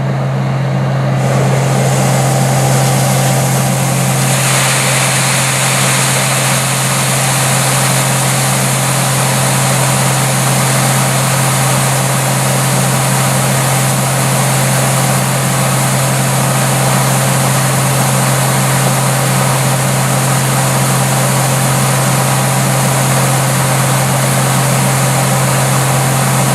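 Heavy engine running steadily with a constant low hum. A broad rushing noise over it steps up about a second in and again about four seconds in, then holds.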